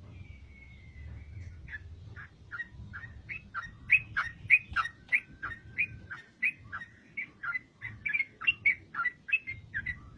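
Yellow-vented bulbul (trucukan) singing: a faint whistle, then a long, fast run of loud, sharp chattering notes that jump up and down in pitch, about three a second.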